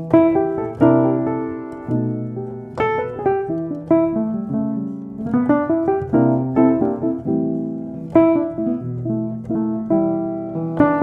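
Background music: solo piano playing a gentle melody, with chords struck about every half second to second and left to ring.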